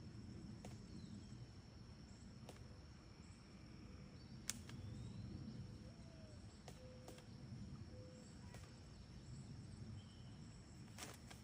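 Quiet outdoor ambience: a steady high insect drone with a low rumble beneath, broken by a few scattered sharp clicks, the loudest about four and a half seconds in and a small cluster near the end.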